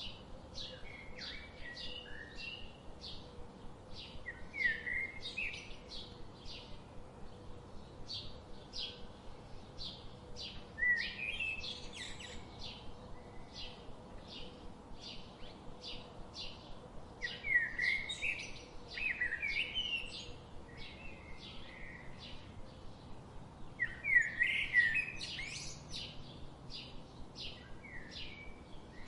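Songbirds singing: a steady run of short, high chirps about two a second, with louder warbling phrases breaking in now and then, the loudest a little before the end.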